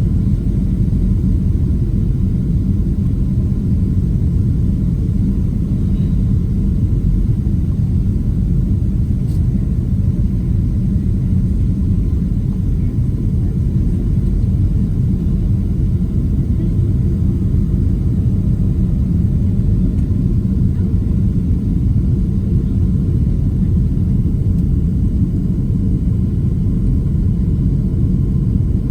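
Steady, loud low rumble of engine and airflow noise inside the cabin of a Delta Boeing 767-300 in flight.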